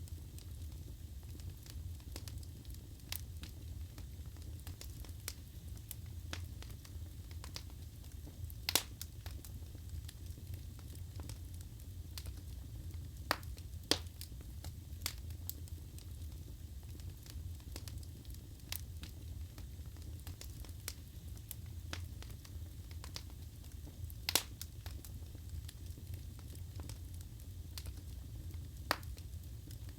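Wood fire burning in a fireplace: a steady low rumble of flames with scattered sharp crackles and pops of the burning logs, a few louder pops standing out.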